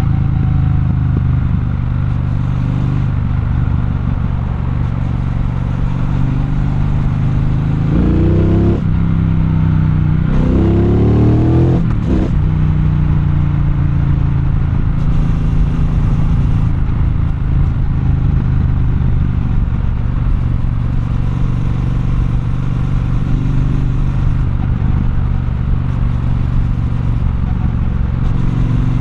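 Triumph Bonneville Bobber's 1200 cc parallel-twin engine running steadily under way, with two rising revs about a third of the way in as it accelerates.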